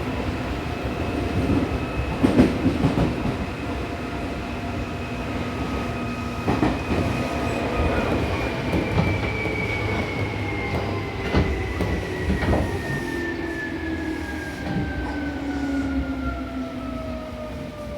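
Seibu New 2000 series electric train slowing on the approach to a station. Its motor whine falls steadily in pitch, and the wheels give a few sharp clacks over the rails.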